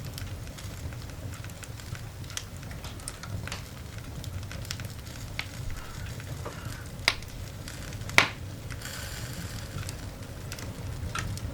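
Coal fire burning in a cast iron dog grate: scattered crackles and small pops over a low steady rumble. Two louder pops come about a second apart past the middle, the second the loudest, followed by a short hiss.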